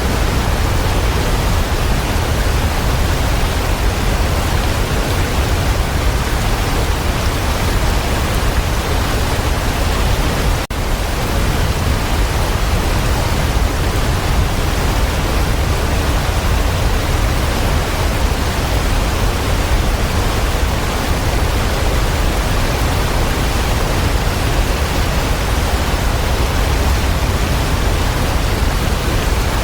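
Waterfall rushing: a steady, loud, even roar of falling water, heaviest in the low end, with one momentary dip about ten seconds in.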